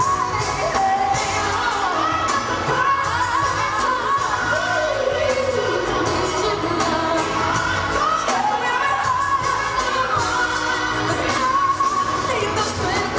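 Live gospel-pop ballad: a woman sings lead over band backing, her voice gliding up and down through long sustained runs.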